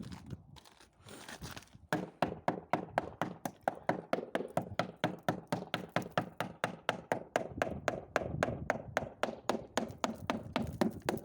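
A screwdriver tapping rapidly at the ice on a frozen car door, sharp knocks about five a second, chipping the door free. The knocks pause briefly about a second in, then run on evenly.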